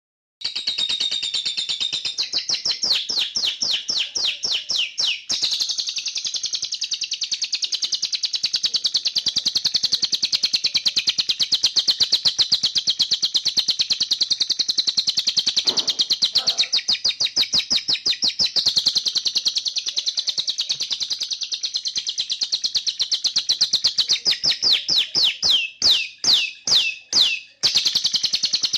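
Canary-style bird song in long fast trills: rolls of rapidly repeated high notes that change speed from roll to roll, sung without pause. There is a brief break near the end.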